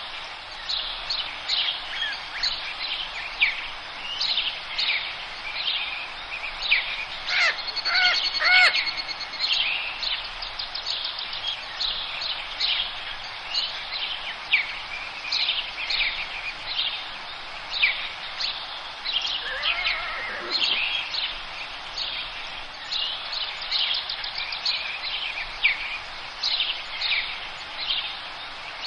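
Forest birdsong: many birds chirping and calling over steady background noise, with a louder call of several pitched notes about a quarter of the way in and a falling call about two-thirds of the way in.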